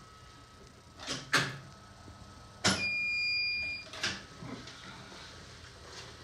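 A couple of knocks, then a sharp click and a steady electronic beep lasting about a second: an X-ray unit firing an exposure, followed by another knock.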